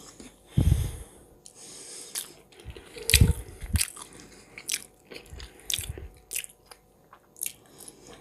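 Close-miked chewing and biting, with many short wet mouth clicks, as smoked fish and bread are eaten. Two low thumps stand out, about half a second in and again about three seconds in.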